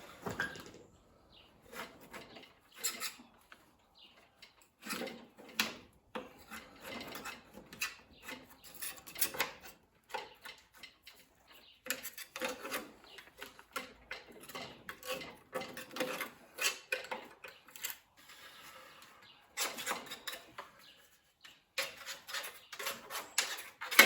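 Irregular scraping and clinking of hand tools working on metal, in short uneven strokes and clusters, as in cleaning or sharpening a lawnmower's blade or deck.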